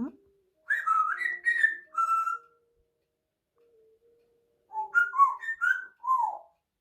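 African grey parrot whistling: two short phrases of warbling, up-and-down whistled notes, each about two seconds long, a few seconds apart.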